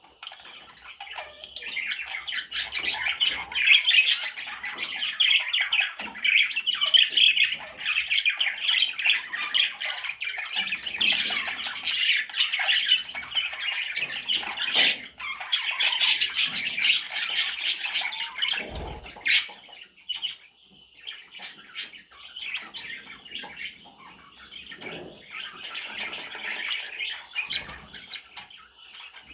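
Budgerigar chicks squawking and chirping in a dense, continuous chatter, busiest for the first two-thirds and then thinner, with a single low bump about two-thirds of the way through.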